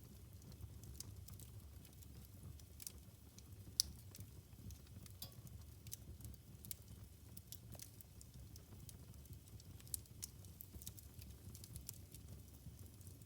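Wood fire burning in a fireplace, crackling with irregular sharp pops and snaps over a low steady rumble; the loudest pop comes a little under four seconds in.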